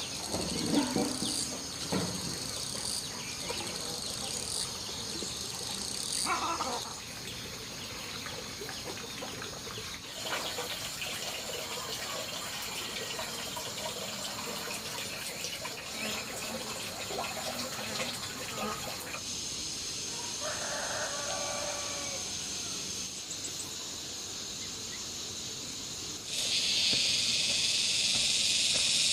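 Insects shrilling steadily at a high pitch, an outdoor insect chorus that changes abruptly a few times and grows louder near the end. A few soft knocks come in the first couple of seconds.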